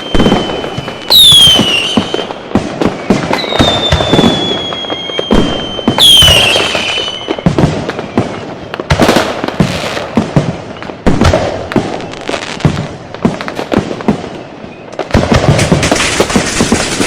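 Firecrackers and fireworks going off in a rapid, irregular barrage of bangs and crackles, with whistling fireworks: a sharp whistle that starts high and dips about a second in and again about six seconds in, and a long, nearly steady whistle between them. Near the end the bangs give way to a denser crackle.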